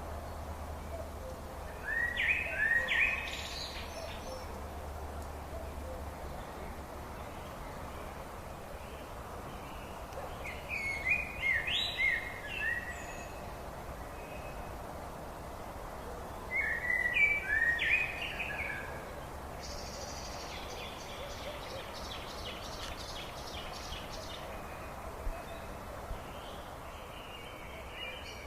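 Songbird singing three short phrases of quick, stepped notes, several seconds apart, over steady background noise; a faster run of short, evenly spaced notes follows in the second half.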